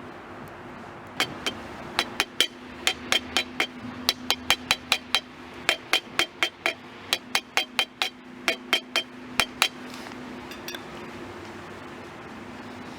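A hard object clinking over and over, about three sharp ringing strikes a second for some eight seconds, then stopping. A steady low hum runs underneath.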